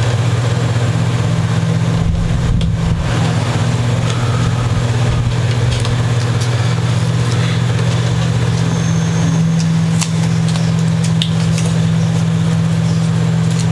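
A steady low hum with two strong unchanging tones runs throughout. Over it, faint soft clicks and crinkles of masking tape being handled and pressed down come and go.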